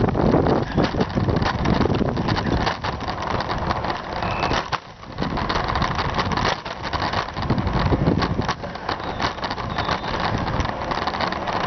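Wind rumbling on the microphone, with road noise, during a bicycle ride; it eases briefly about five seconds in.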